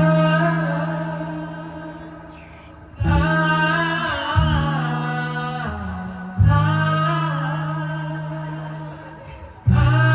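Live band music playing a song's introduction: deep chords struck about every three seconds, each ringing out and fading, under a wavering higher melodic line.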